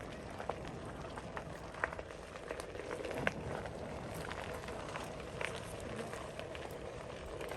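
Bicycle riding along, a steady rolling noise with scattered light clicks and rattles.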